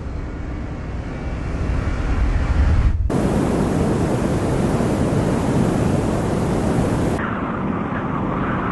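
Strong dust-storm wind rushing and buffeting the microphone, with heavy low rumbling at first; the sound changes abruptly about three seconds in and again near seven seconds as different clips are cut together.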